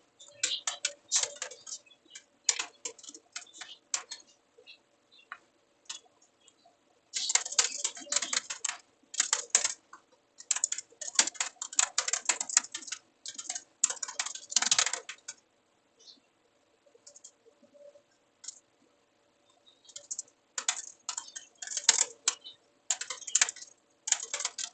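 Computer keyboard typing in quick bursts of rapid keystrokes, broken by pauses of a few seconds with only scattered key presses. A faint steady hum runs underneath.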